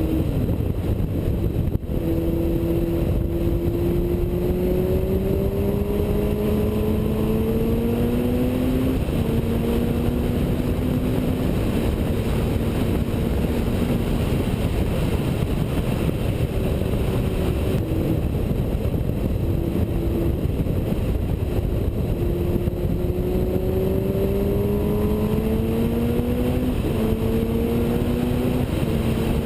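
Suzuki GSX-R1000 inline-four engine accelerating hard, its pitch rising and then dropping in a quick step at each upshift, about twice, with a steadier stretch between them. The upshifts are made without the clutch. A constant rush of wind and road noise lies under the engine throughout.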